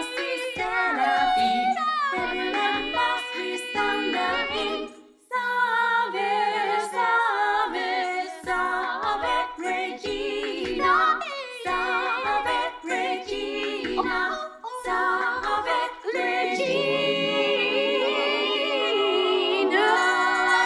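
Several voices singing together a cappella, recorded separately and layered into one choral arrangement. The singing breaks off briefly about five seconds in and closes on a long held chord near the end.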